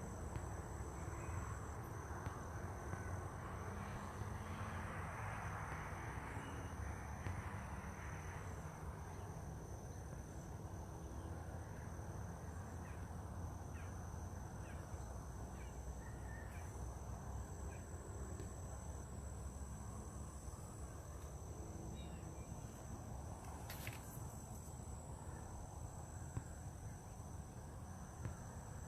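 Steady outdoor insect chorus: two unbroken high-pitched trills over a constant low rumble, with a few faint short chirps and a single click near the end.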